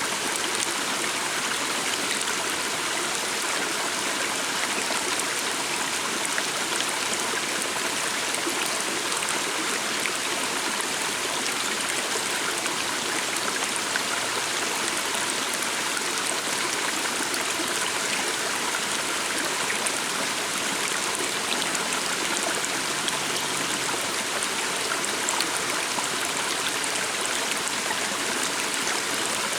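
Small stream running steadily over stones: a continuous, even rush of water.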